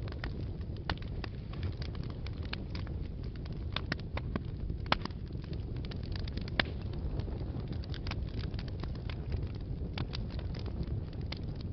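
Wood fire burning in a fireplace: a steady low rumble of flames with irregular crackles and sharp pops, a few louder ones about five and six and a half seconds in.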